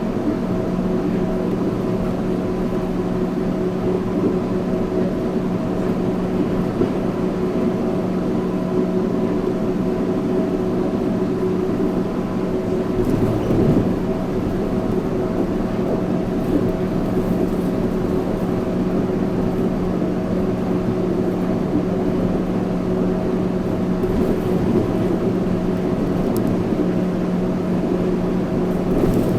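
Yurikamome 7300-series rubber-tyred automated guideway train running at a steady speed: a steady hum with several held tones over the rumble of rubber tyres on the guideway, and a brief louder bump about halfway through.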